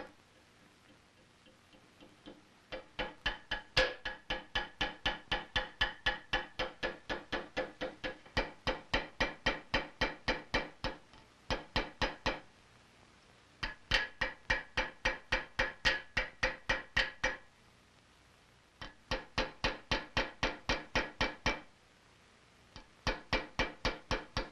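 Hammer blows on metal over an anvil, about three to four a second, each blow ringing. They come in several runs with short pauses between them.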